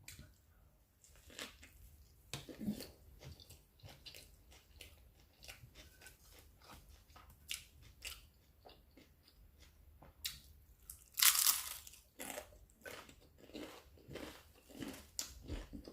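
Close-up chewing and mouth smacking while eating a steak and cheese sub, with a louder crunchy burst about eleven seconds in.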